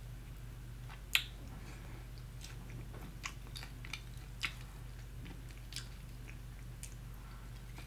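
A person biting and chewing crispy fried chicken close to the microphone: scattered short crunches, the sharpest about a second in, over a steady low hum.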